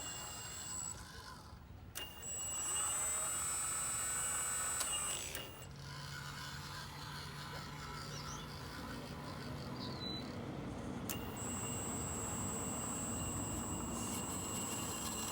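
Hydraulic pump motor of a Magom HRC CAT 330D radio-controlled excavator whining in two stretches: from about two seconds in until about five seconds, and again from about eleven seconds on. A rougher low mechanical hum runs between the two stretches.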